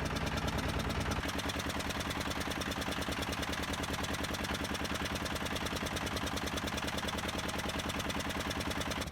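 Boat engine idling with a steady, rapid chugging knock.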